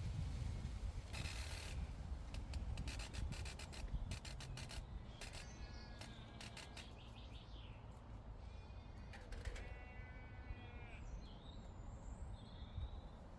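Outdoor meadow ambience: a steady low rumble of wind on the microphone, with a rapid run of rustling clicks over the first few seconds. Short animal calls come in a little after five seconds and again around nine seconds, and small birds chirp near the end.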